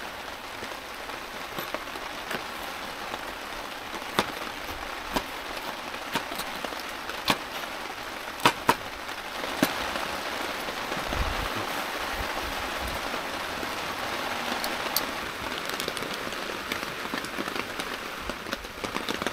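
Steady rain pattering, with a dozen or so sharp clicks of a kitchen knife cutting vegetables down onto a plastic cutting board.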